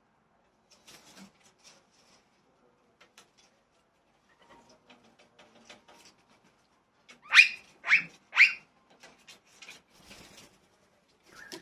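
A bird gives three loud short calls in quick succession, about half a second apart, past the middle. Faint scattered clicks and taps come before and after.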